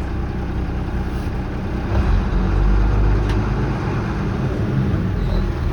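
International DT466 diesel engine of a dump truck idling while its air system builds pressure, running a little louder from about two seconds in.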